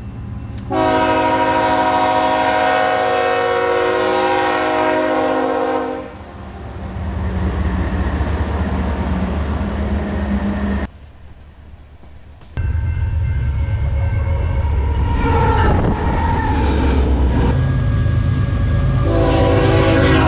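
Diesel freight locomotive's air horn sounding a chord of several notes for about five seconds, followed by the steady rumble of locomotive engines and a passing train. The sound cuts off abruptly partway through, and the rumble resumes. A second horn blast begins near the end.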